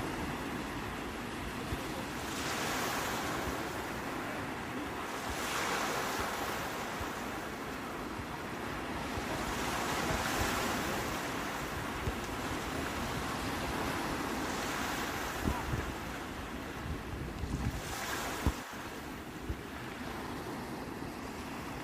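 Sea waves breaking and washing on the shore, the surf swelling every few seconds, with wind rumbling on the microphone.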